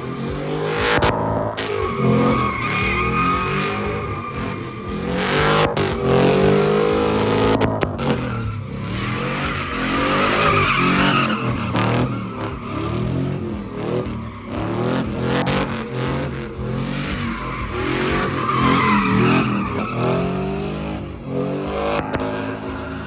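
Truck engine revving up and down again and again while its tyres squeal and skid, as the truck is swung around in circles.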